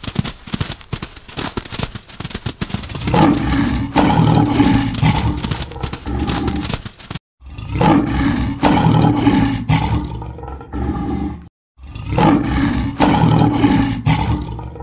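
Lion roar sound effects: about three seconds of quick, quieter thuds, then three long, loud roars one after another, each broken off by a sudden cut to silence.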